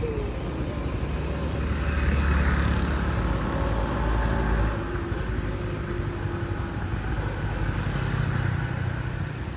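A motor vehicle passing: a low engine rumble and road noise that swell about two seconds in and die down after about five seconds.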